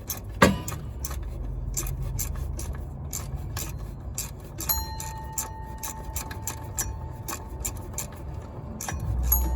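Hand tools and metal parts clicking and scraping during work in the engine bay, with one sharper knock about half a second in, over a low steady rumble.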